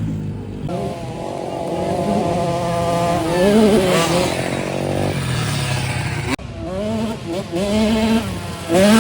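Dirt bike engines revving, their pitch rising and falling as the throttle opens and closes. The sound cuts off abruptly about six seconds in, then more revving follows.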